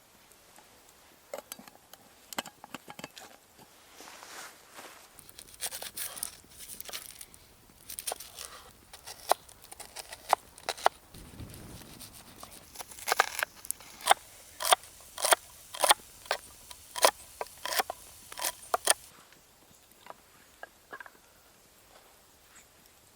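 A run of irregular sharp snaps and crunches, sparse at first, then thick and loud through the middle, stopping about four seconds before the end.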